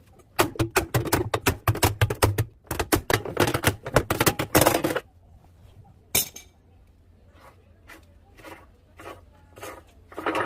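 Rapid, irregular metallic clanking and knocking as parts of a washing machine are handled and worked on with tools. It stops abruptly about five seconds in, followed by a few scattered clicks and one sharper knock.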